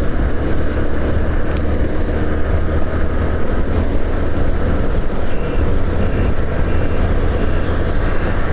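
Steady road noise from a moving motorcycle: the engine running at cruising speed with wind rushing over the microphone, strongest in the low rumble.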